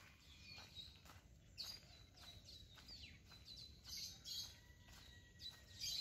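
Faint birds chirping: short, high, falling chirps coming several times over, some louder, under a thin steady high-pitched tone.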